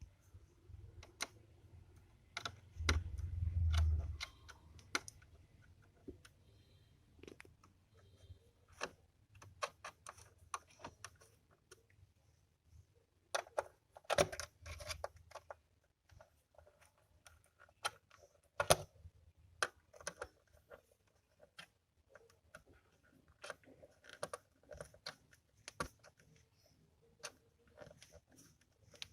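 Scattered small clicks and knocks at irregular intervals, with a brief low rumble about three seconds in.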